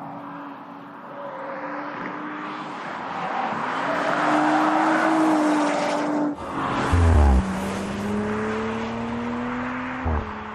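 2018 Audi RS4 Avant's 2.9-litre twin-turbo V6 accelerating hard through the gears. The engine note climbs and breaks at an upshift with a loud low thump about seven seconds in, then climbs again and drops at another shift near the end.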